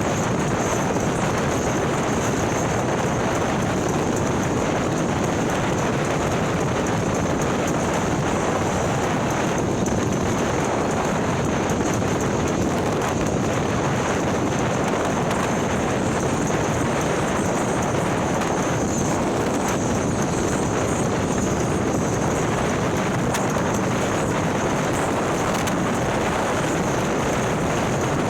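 Harley-Davidson Milwaukee-Eight V-twin, built out to 130 cubic inches with a ThunderHeader exhaust, running steadily at cruising speed, mixed with wind rushing over the microphone.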